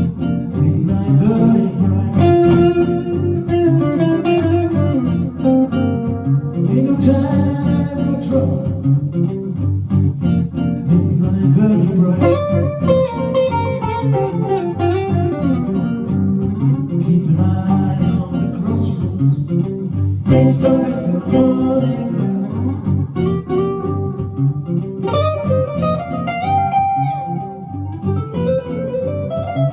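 1953 Gibson ES-125 hollow-body electric guitar playing a blues tune, single-note licks with bent, gliding notes over a steady lower part.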